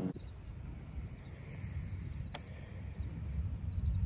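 Insects chirping faintly in short repeated pulses, over a steady low rumbling noise. One sharp click about two and a half seconds in.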